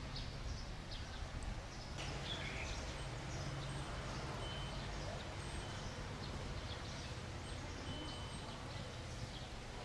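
Outdoor background noise: a steady low rumble with scattered short, faint high chirps.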